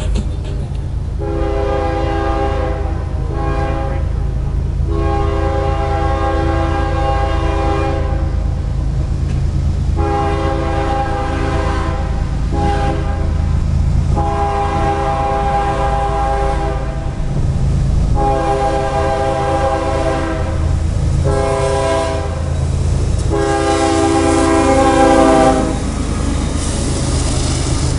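Diesel freight locomotive's multi-chime air horn sounding a series of long and short blasts, over the steady low rumble of the engines and the passing train. The horn stops near the end, leaving the rumble and the rolling cars.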